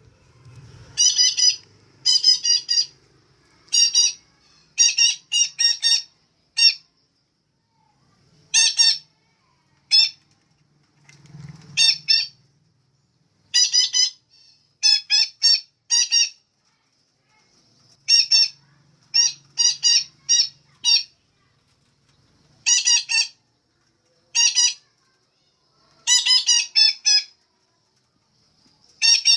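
Female betet parakeet calling: short, high-pitched calls, given singly or in quick runs of two to four, with short pauses between. The kind of female call that bird keepers play to stimulate their birds into singing.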